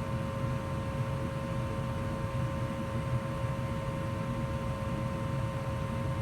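2004 Goodman gas furnace running steadily in heat mode: a constant low rumble with a steady hum over it.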